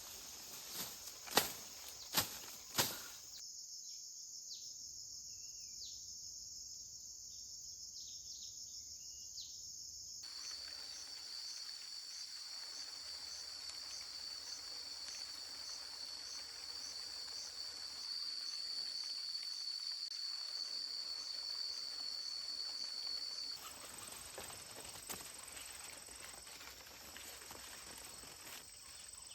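Insects chirring in a steady, high-pitched drone, with a few sharp knocks in the first three seconds.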